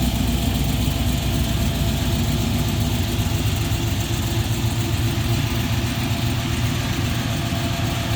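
A 1974 Pontiac Trans Am's 6.0-litre LQ9 V8, breathing through long-tube headers and a Magnaflow stainless exhaust, idling steadily with a deep, even rumble.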